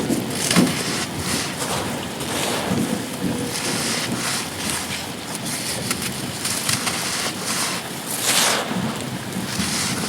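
Heavy wind gusting over the microphone with rain falling, swelling and easing, with a stronger gust about eight seconds in.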